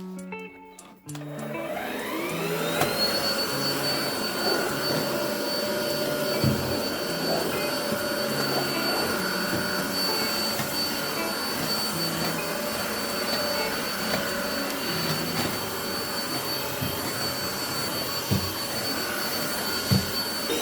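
Vacuum cleaner switched on about a second in, its motor whine rising over a couple of seconds to a steady high pitch and then running steadily, with a few brief knocks.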